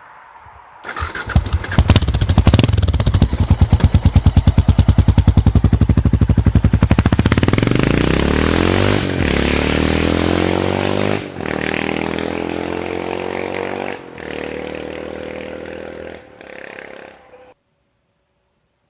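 1994 BMW F650 Funduro's 652 cc single-cylinder engine through a Hattech Type 2003 aftermarket exhaust. It comes in about a second in, running with loud, even exhaust beats. Then it pulls away, the note rising through the gears with short breaks at each shift and fading as the bike moves off, before cutting off near the end.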